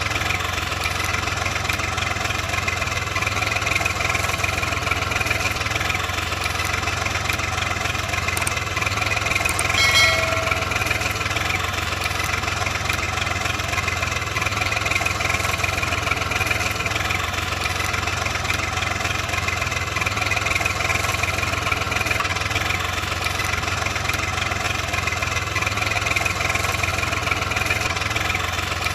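Steady engine sound, like a tractor idling, at an even level, with a brief higher pitched tone about ten seconds in.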